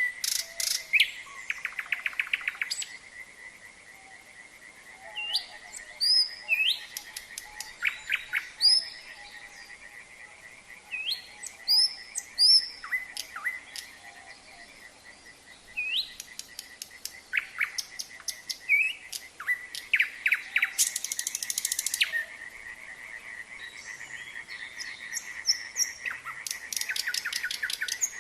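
Nightingale singing in separate phrases of rising whistles, rapid repeated notes and trills, with a harsh rattle about three-quarters of the way through. Beneath it a steady pulsing chorus of frogs.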